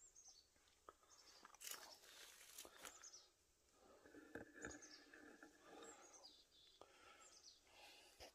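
Faint bird calls, short high chirps falling in pitch several times, over bouts of soft crunching and rustling.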